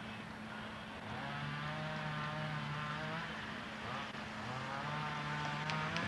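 Vehicle engine running, with two stretches of steadier, louder engine tone of about two seconds each over a constant low hum.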